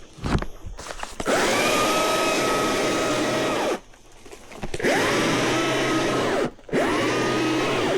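Battery chainsaw's electric motor run in three bursts, each spooling up to a steady whine and then stopping, after a second of scattered knocks.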